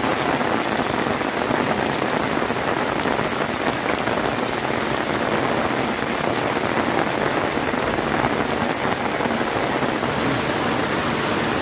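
Heavy rain falling steadily, a dense, even hiss of drops with no break or change.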